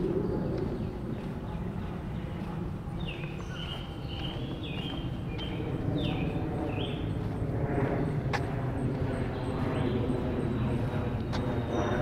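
A bird calling a run of short, downward-slurred notes between about three and seven seconds in, over a steady low rumble of outdoor background noise.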